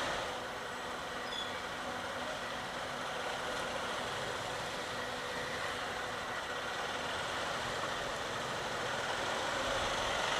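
Steady noise of a Bajaj Pulsar NS200 motorcycle running in traffic, muffled by the closed helmet visor the microphone sits behind.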